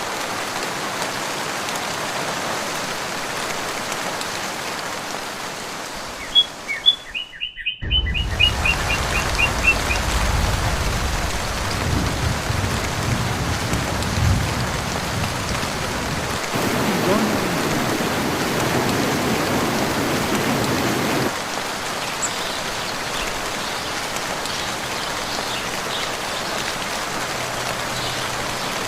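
Steady rain falling, with a bird giving a rapid run of about ten short chirps around seven seconds in. The rain's texture changes abruptly a few times, with a deeper rumble under it for a while.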